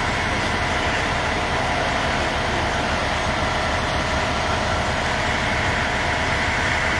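A large truck's diesel engine idling steadily close by, a constant low running sound with no changes.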